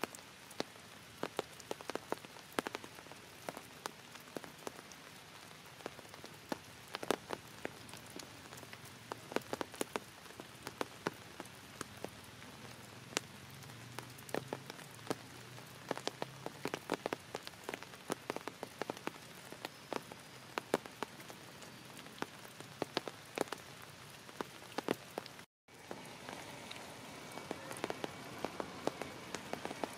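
Rain falling, with many sharp, irregular drop hits on a nearby surface over a steady hiss. The sound cuts out for a moment near the end, then goes on as a steadier hiss.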